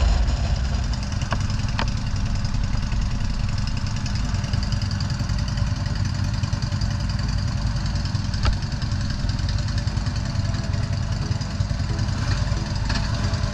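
Motorcycle engine running steadily, with a few faint clicks.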